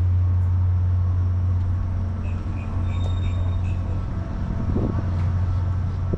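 Steady low hum of a SunRail commuter train standing or moving slowly, with a faint run of about five short, high beeps near the middle.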